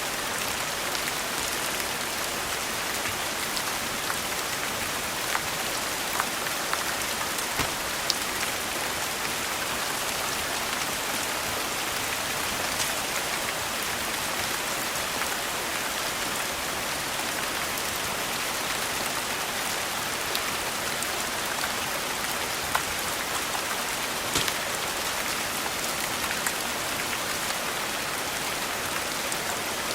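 Steady rain falling on a surface, an even hiss with scattered sharp clicks and pops on top.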